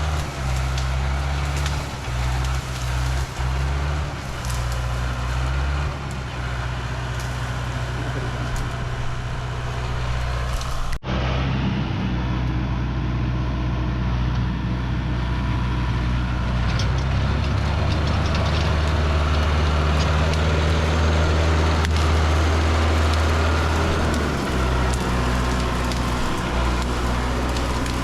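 Tractor engine running steadily. It changes abruptly about eleven seconds in and is somewhat louder in the middle of the second half.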